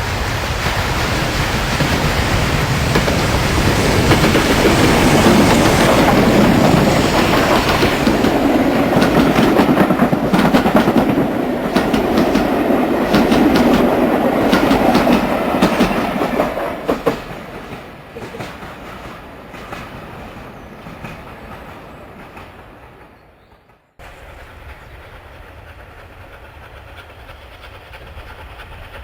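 Train running with the clickety-clack of wheels over rail joints, loud at first and fading away after about seventeen seconds. A quieter steady background follows a sudden cut near the end.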